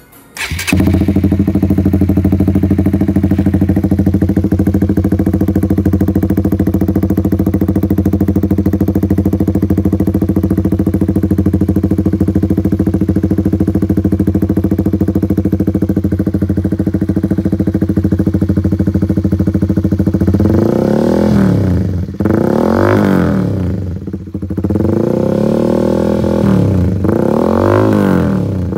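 Honda CBR150R's single-cylinder four-stroke engine running through an aftermarket CLD Monster Race exhaust with the dB killer removed. It idles steadily, then is revved in a string of quick throttle blips from about twenty seconds in.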